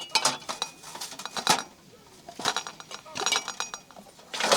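Utensils clinking against dishes: several quick clusters of sharp taps with a bright ring, the loudest cluster near the end.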